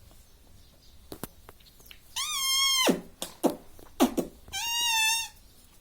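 Ringneck parrot giving two drawn-out, high-pitched calls, about two and a half seconds apart, with a few sharp clicks between them.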